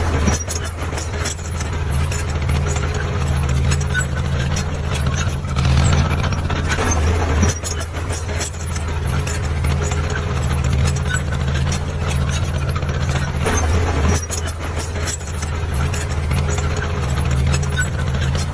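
Heavy construction machine's diesel engine running steadily, with frequent light clicks and clatter over the top.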